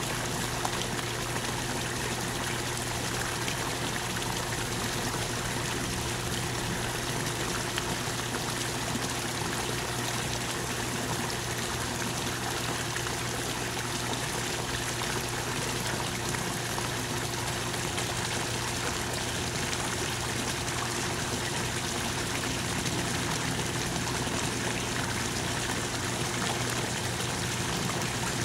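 Steady rain falling, an even unbroken hiss of water with trickling runoff, over a faint steady low hum.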